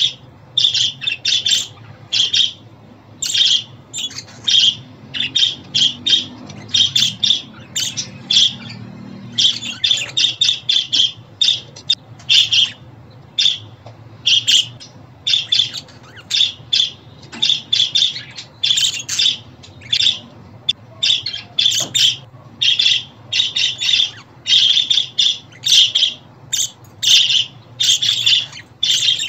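Budgerigars chattering and calling, a rapid run of short squawks and chirps several times a second.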